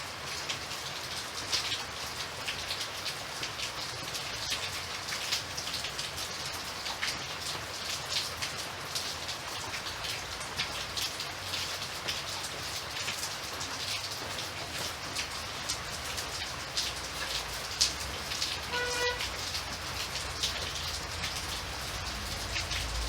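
Steady rain falling, with individual drops ticking on a surface. About nineteen seconds in, a short pitched sound is heard once over the rain.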